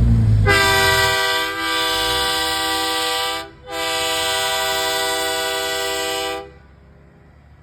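Semi truck air horn blown in two long blasts of about three seconds each, with a short break between them. A heavy low rumble fades out in the first second.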